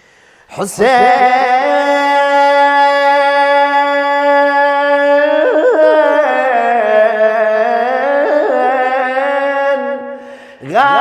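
Male reciter of a mournful Arabic elegy singing one long drawn-out vowel with no words: the note is held steady, then wavers through quick ornamental trills and steps down in pitch, breaking off about ten seconds in.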